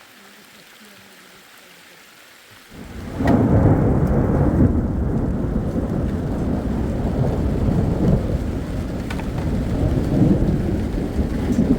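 Thunder: a loud, low rumble breaks in suddenly about three seconds in and rolls on with swells over a steady patter of rain.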